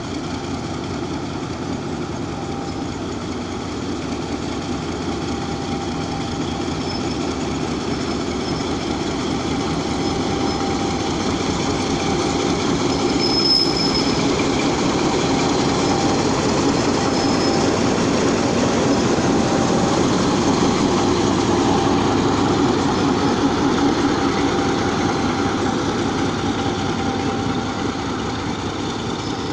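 A departing passenger train's carriages rolling along the track. The rumble builds to its loudest around the middle, then eases slightly, with faint intermittent wheel squeal.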